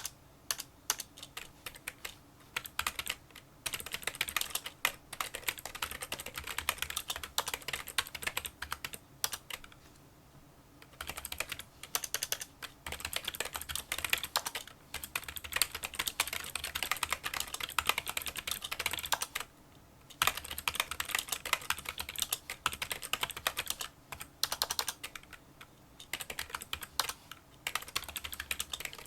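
Fast touch-typing on a Kinesis Freestyle Solo split keyboard with membrane key switches: quick runs of small, light clicking keystrokes. The typing stops briefly about ten seconds in and again near twenty seconds.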